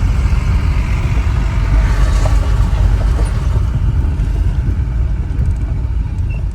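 Steady, loud rumble of a vehicle driving over a rough road, heard from inside: tyre and road noise with engine hum.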